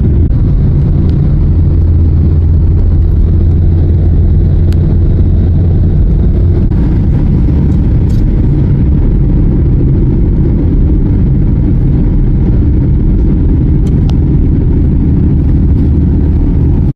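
Car driving along, its engine and road noise heard from inside the cabin as a loud, steady low drone that cuts off suddenly at the end.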